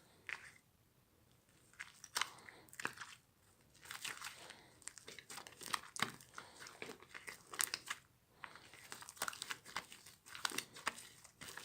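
Crunchy watermelon slime being squeezed and worked by hand, crackling in irregular clusters of sharp clicks and pops, with short quiet pauses between squeezes.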